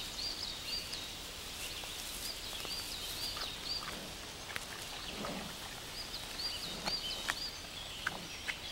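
Forest ambience with a small bird singing: short, high, hooked notes in quick phrases of four or five, repeated every couple of seconds over a steady hiss.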